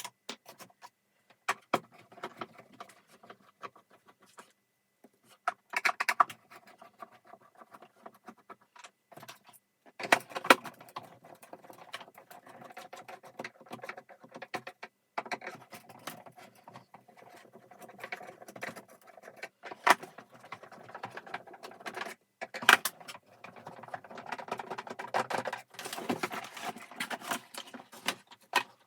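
Irregular clicks, knocks and rattles of plastic vacuum-cleaner parts and small hardware being handled during disassembly, busier and louder in the second half.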